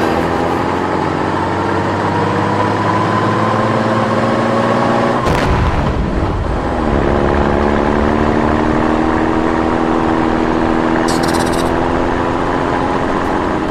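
Dubbed-in vehicle engine sound effect, accelerating with its pitch slowly climbing. About five seconds in a sudden noisy burst breaks it, then the engine climbs again.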